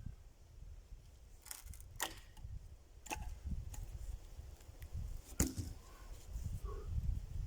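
Wood being chopped: a handful of sharp knocks and cracks, spaced irregularly a second or so apart, over a steady low rumble.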